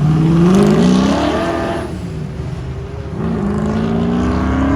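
A car engine accelerating hard, its pitch climbing, falling off about two seconds in, then climbing again as it pulls away.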